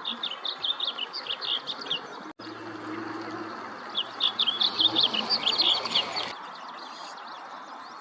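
A songbird singing fast warbled phrases of high notes. The song comes in two stretches, broken by a brief gap a little over two seconds in, and trails off into faint chirps about six seconds in.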